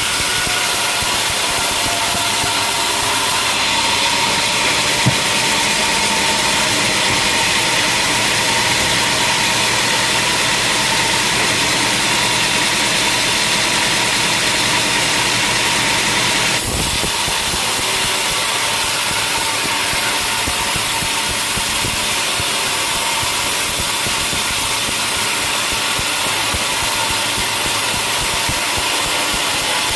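Sawmill machinery running steadily: a motor drone with a held whine. A brighter hiss rides over it from a few seconds in until about halfway through, then stops abruptly.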